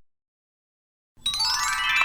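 Silence, then about a second in a short chime jingle: a quick rising run of bell-like notes that ring on together. It serves as a transition cue between the single-word flashcards and the sentence flashcards.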